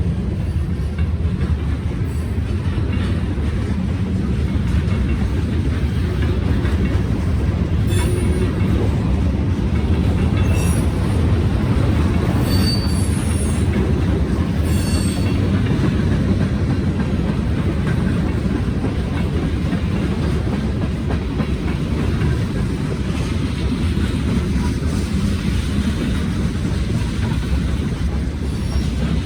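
Freight train cars rolling past, a steady rumble of steel wheels on rail, with brief high wheel squeals about ten to fifteen seconds in.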